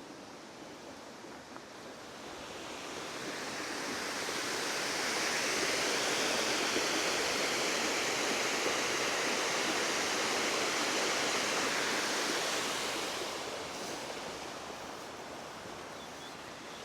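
Rushing water, like a river or weir, growing louder, holding for several seconds, then fading again.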